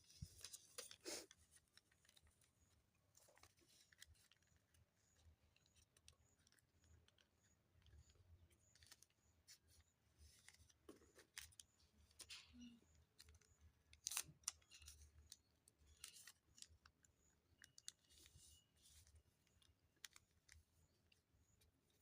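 Faint paper crafting: scissors snipping paper, with scattered rustles and clicks of the paper being handled.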